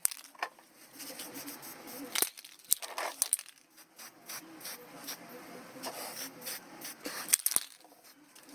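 Irregular handling noise: scattered sharp clicks and knocks with rustling and scraping between them, the loudest knocks about two, three and seven seconds in.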